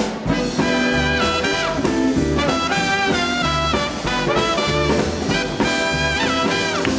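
Live swing band kicking off an up-tempo number: a horn section plays riffs over a pulsing bass and drums, starting abruptly.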